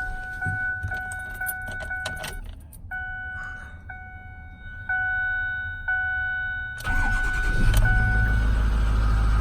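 Dashboard warning chime beeping, fast at first and then about once a second, with keys clicking in the ignition; about seven seconds in, the rebuilt Power Stroke V8 diesel of a 2008 Ford F550 cranks, starts and settles into a steady idle.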